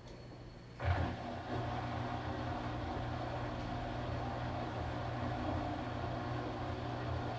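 Washing machine running: after a short lull the drum motor starts again with a sudden surge about a second in, then runs on steadily with a low hum.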